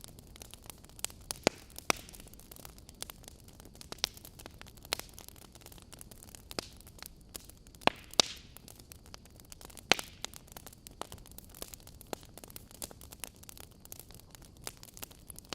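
Fireplace crackling: irregular sharp pops and snaps over a soft steady hiss, with a few louder pops scattered through.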